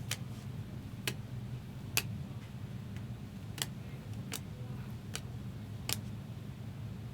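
Seven sharp clicks and taps at uneven intervals as trading cards are handled on a table, over a steady low hum.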